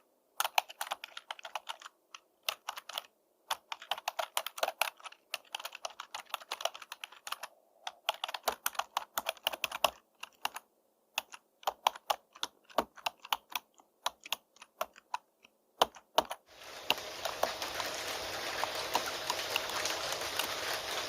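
Typing on a computer keyboard: rapid clusters of key clicks broken by short pauses. About sixteen seconds in, the typing stops and a steady hiss of rain begins abruptly.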